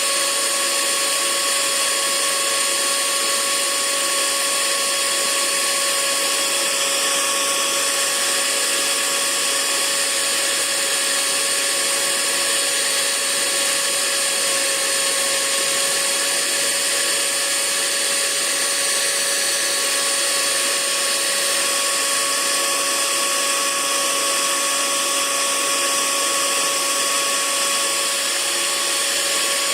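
Hair dryer running steadily: an even rush of blown air with a constant motor whine and a few high steady tones, unchanging throughout.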